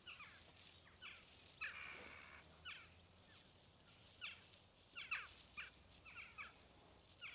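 Faint, distant jackdaws calling: a scattered series of short, sharp calls, about one or two a second.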